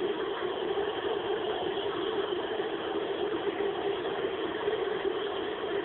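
Steady engine-like noise, an even dense rumble that holds without a break.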